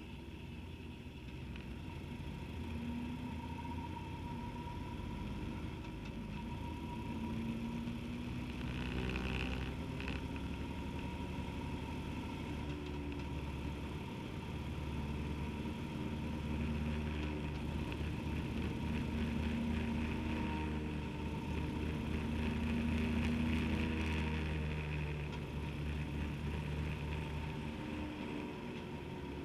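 Motorcycle engine running on the move, its pitch rising and falling repeatedly as the revs change.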